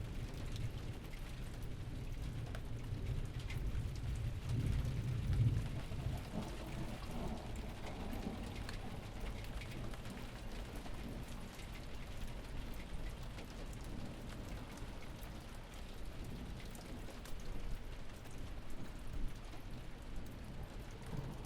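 Steady rain falling, with scattered small drop ticks and a low rumble underneath that swells about five seconds in.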